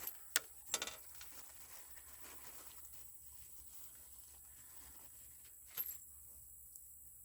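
A few clicks and short clatters of parts and hardware being handled while a chicken plucker is bolted together: a sharp click near the start, a brief rattle just after, and another clatter near six seconds.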